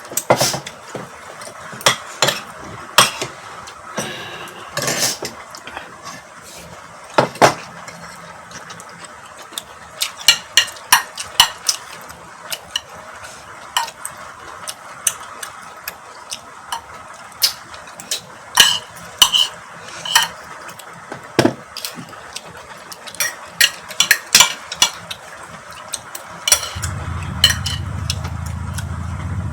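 Spoon and fork clinking and scraping against bowls and plates during eating, with many sharp clinks at irregular intervals. A low steady hum, like an engine, comes in near the end.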